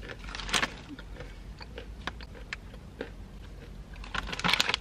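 Chewing crunchy masala-coated peanuts with the mouth closed: scattered small crunches, with a denser burst of crunching about half a second in and again near the end.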